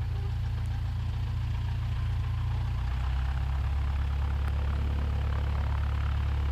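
1969 Cessna 172's piston engine idling, a steady low drone in the cockpit; the drone shifts slightly about two and a half seconds in.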